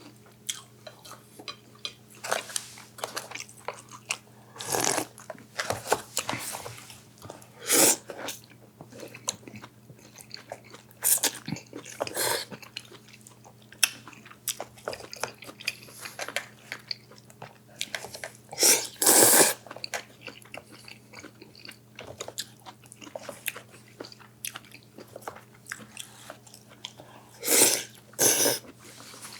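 Close-miked eating: irregular chewing and biting with crunchy bites, and a few louder noisy bursts of under a second each, over a steady low hum.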